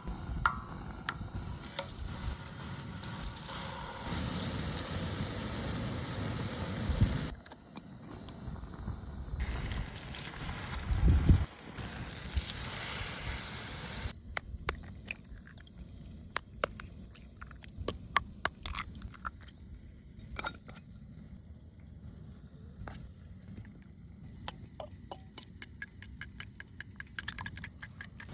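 Food frying in a pan on an outdoor fire: a steady sizzle in several cut sections, then a long stretch of sharp crackles and clicks.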